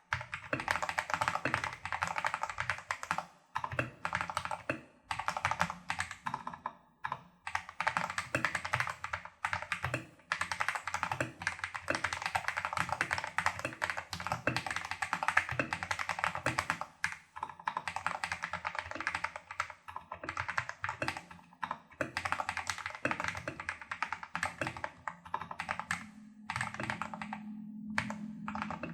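Continuous fast typing on a Tester68 mechanical keyboard with lubed Holy Panda clone tactile switches, a taped PCB and XDA-profile keycaps: a dense run of keystrokes broken by brief pauses.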